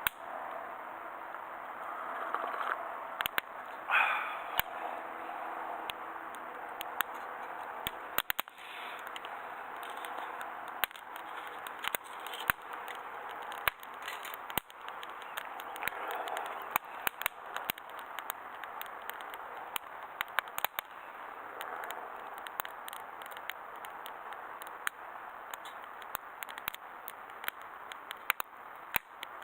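Burning wood in a fire grill crackling and popping, with many sharp irregular pops over a steady hiss.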